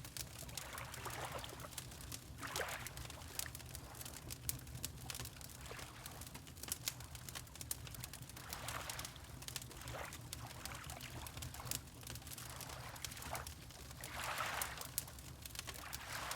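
Water lapping in soft, irregular swells, several over the stretch, with a fireplace crackling throughout in sharp scattered pops over a low steady rumble.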